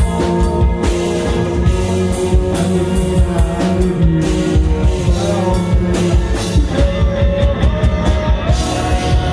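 Rock band playing: a drum kit beating steadily under distorted electric guitar, with long held notes that bend in pitch.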